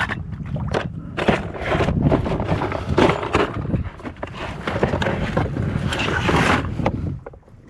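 Wind buffeting the microphone on a fishing kayak, with frequent irregular knocks, clicks and rattles of gear being handled against the hull.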